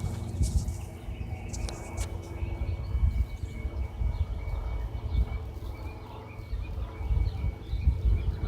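Outdoor ambience: an uneven low rumble with faint bird chirps and a thin steady high tone.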